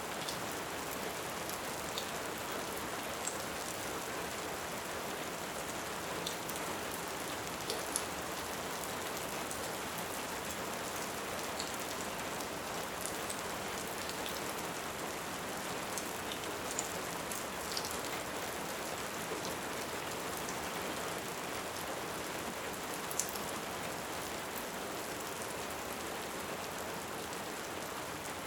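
Steady rain with scattered sharp pops from a crackling wood fire.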